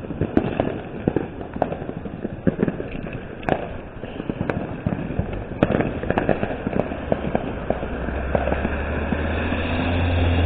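Fireworks and firecrackers going off all around: scattered sharp pops and bangs at irregular intervals. A steady low rumble builds in the last few seconds.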